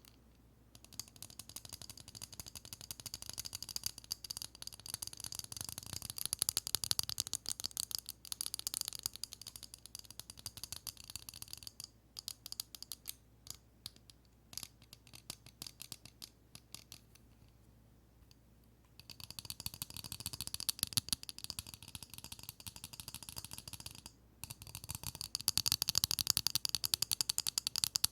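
Rapid tapping on a pair of eyeglasses: fast runs of light, crisp clicks that come in spells, thinning out to scattered taps in the middle, then busy again.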